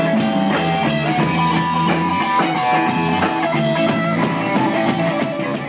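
Rock and roll music: electric guitar notes over a drum kit keeping a steady beat.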